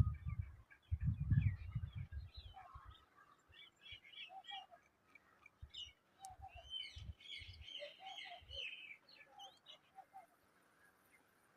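Babblers chirping and chattering in many short, rapid calls, busiest in the middle, with low thumps in the first couple of seconds.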